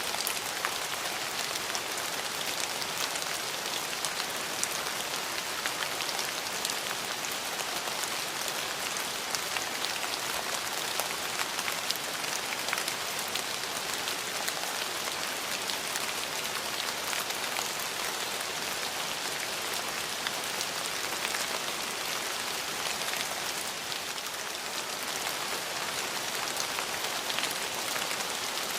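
Steady rain falling and pattering on surfaces, with many close drops ticking over an even hiss.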